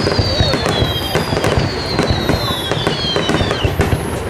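Aerial fireworks bursting and crackling in quick succession, with a long whistle gliding down in pitch through the first three seconds or so.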